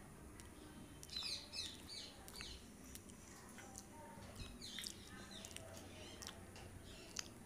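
Faint chirping of a small bird: quick runs of short falling notes about a second in and again near the middle, over faint chewing and mouth clicks.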